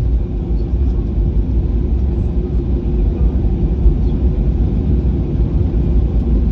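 Steady low rumble inside a jet airliner's cabin during landing: engine and runway noise, with no sudden events.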